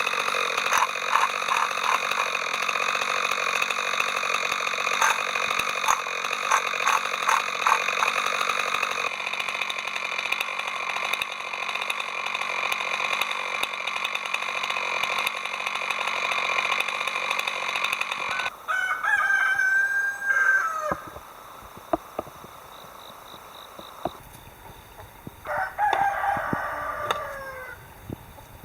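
A steady high-pitched drone with bursts of clicking, which cuts off two-thirds of the way in. A rooster then crows twice.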